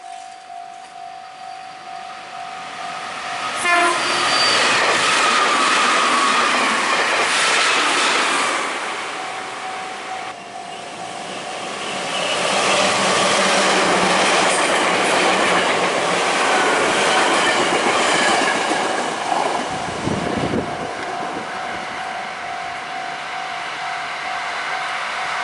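Red Meitetsu electric trains passing close by, their wheels clattering over the rail joints, with a short train horn blast about four seconds in. A steady level-crossing warning bell rings in the quieter stretches.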